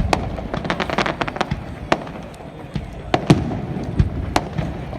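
Fireworks going off: a rapid crackle of many small bangs about a second in, then single louder bangs spaced out over a low rumble.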